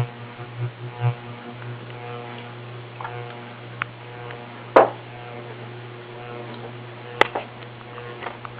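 Ceiling fan motor running with a steady electrical hum that pulses for about the first second and a half. Two sharp clicks come about five and seven seconds in.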